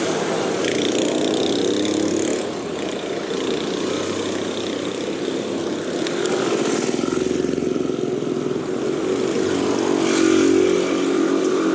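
Road traffic: motorcycle and car engines running close by, a steady mix of engine drone and road noise.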